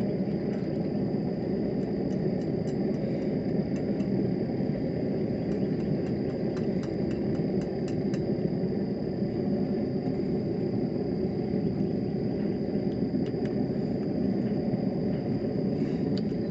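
A forge running with a steady low roar, with faint quick ticking a couple of seconds in and again around the middle.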